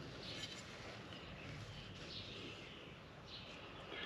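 Faint, scattered bird chirps over quiet room tone.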